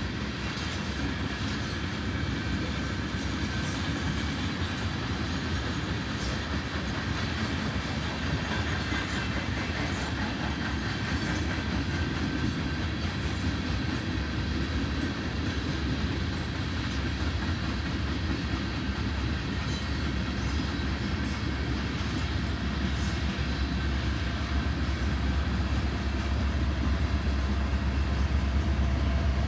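Union Pacific freight train's coal hopper cars rolling past steadily: a low rumble with steel wheels clicking over the rail joints, growing a little louder near the end.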